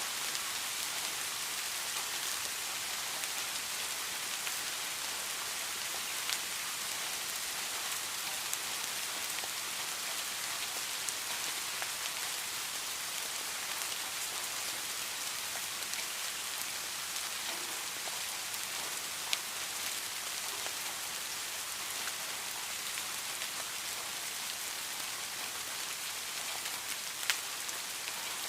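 Steady rain falling: an even, high hiss with a few louder single drops ticking now and then, the sharpest near the end.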